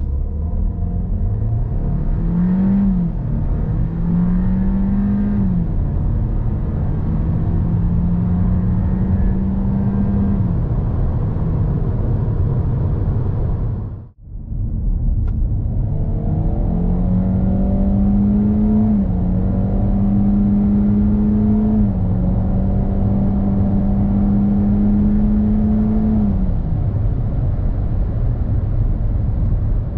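Kia Seltos four-cylinder engine accelerating hard, twice. Each time the engine note climbs, drops back at an upshift, climbs again, then holds high before falling away as the throttle is lifted. The two runs are split by a sudden cut about fourteen seconds in.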